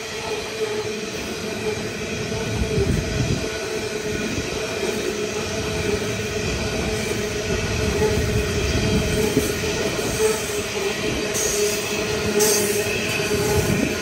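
Coal hopper wagons of a long freight train rolling steadily past, a continuous rumble of wheels on rail with a held squealing tone from the wheels and a few brief knocks.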